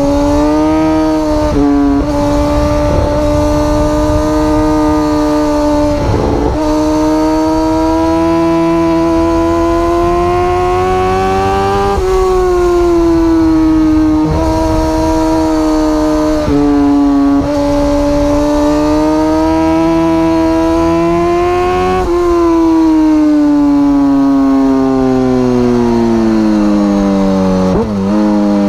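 Superbike engine at high revs, heard on board, its note climbing slowly and then dropping at each gear change every few seconds. Heavy wind rush on the microphone runs underneath.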